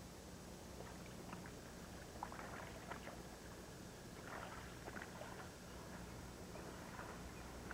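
Faint, scattered rustling and crackling over a steady low hum.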